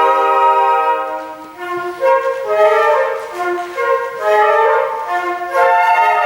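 Flute ensemble playing: a held chord dies away about a second and a half in, then shorter notes move in several parts, and a full sustained chord returns near the end.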